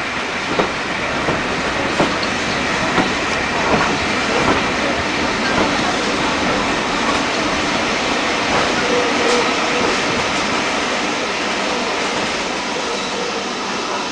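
Steam-hauled heritage passenger train running slowly along a station platform, heard from a carriage window: a steady rumble with the wheels clicking over rail joints, the clicks spacing out as the train slows.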